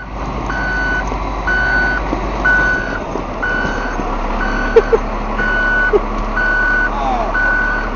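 Vehicle reversing alarm beeping about once a second in steady, even pulses over a low engine rumble, with a couple of short sharp knocks about five seconds in.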